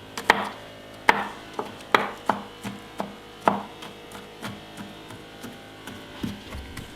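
Knife chopping garlic on a cutting board: a run of irregular sharp knocks, about one to two a second, fewer and softer near the end.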